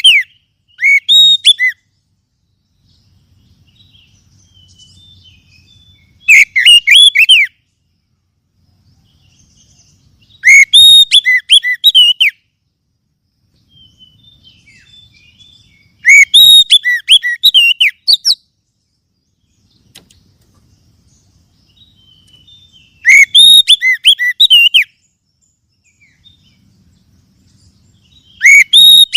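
Oriental magpie-robin (kacer) singing in short, loud phrases of rapid, varied whistles and chirps, one phrase every five to six seconds, with pauses between. A faint low hum fills the gaps.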